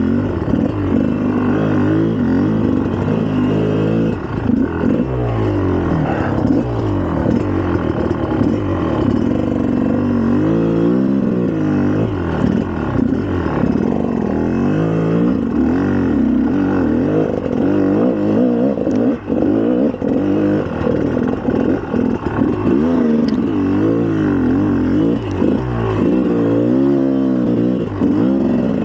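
2004 GasGas EC300's two-stroke single-cylinder engine being ridden, its pitch rising and falling again and again as the throttle is opened and closed.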